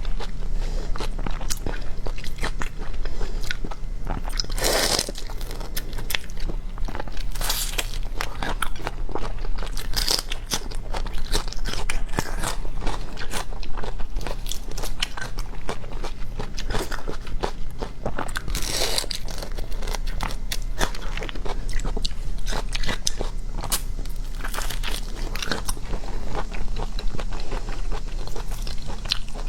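Close-miked eating: continuous crunching, biting and chewing of crunchy food, with several louder crunches along the way, over a low steady hum.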